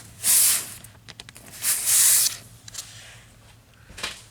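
Two short, hissy rubbing strokes on the model's painted concrete floor as the weathering wash is worked in, with lighter strokes between them and a small tap near the end.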